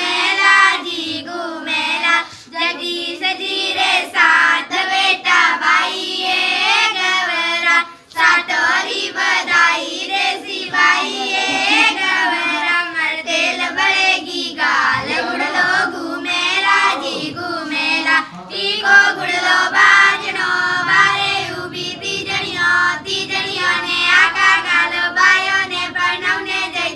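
A high, child-like voice singing a song in continuous phrases, with a brief break about eight seconds in.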